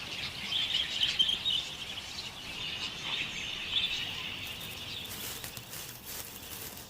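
A flock of budgerigars chattering and chirping in a continuous high twitter that thins out after about four seconds.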